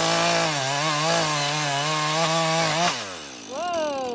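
Chainsaw running at high revs, as if cutting wood, with a steady, slightly wavering pitch. About three seconds in the throttle is released and the pitch falls away. A brief falling pitched sound follows near the end.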